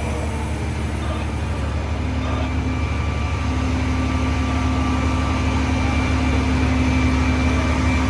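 A heavy vehicle's engine running steadily over street noise, with a steady hum coming in about two seconds in.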